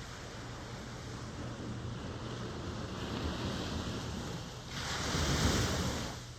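Ocean surf washing in, with one louder wave breaking about five seconds in and fading away near the end.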